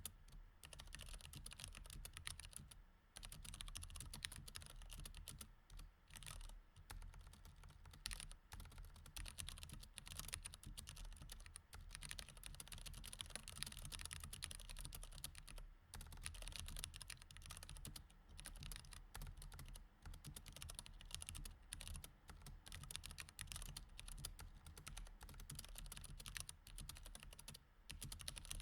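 Typing on a mechanical keyboard with Cherry MX Red switches: fast, continuous runs of key clicks, broken by short pauses about three and six seconds in and again around the middle.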